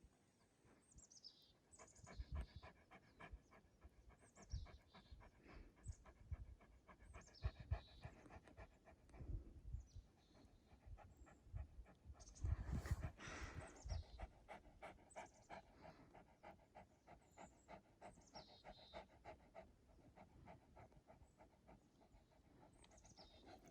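An animal panting rapidly and evenly, with short high falling chirps every few seconds and a few low thumps.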